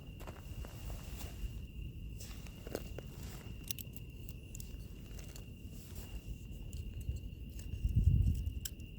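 Wood fire crackling, with scattered sharp pops, over the steady high trill of insects. A low rumble runs underneath and swells louder about eight seconds in.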